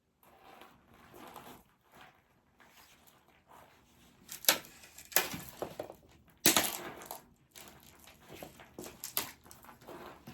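Dry wood cracking and snapping in irregular sharp snaps, three loud ones around the middle, with lighter crackles and rustling between.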